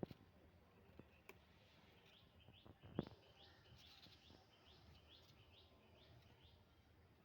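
Faint bird chirping: a quick series of short high chirps, about three a second, in the middle stretch. Light knocks at the start and about a second in, with a sharper knock about three seconds in.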